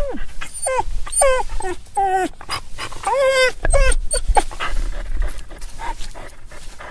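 A dog whining: a quick series of short, wavering, high-pitched cries over the first four seconds or so, then quieter for the rest.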